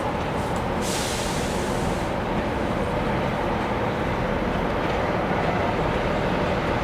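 A train running at low speed with a steady rumble, and a short high hiss about a second in that lasts roughly a second.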